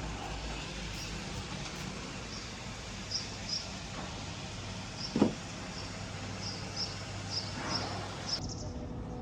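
Steady outdoor background noise, with short high chirps now and then and a single knock about five seconds in.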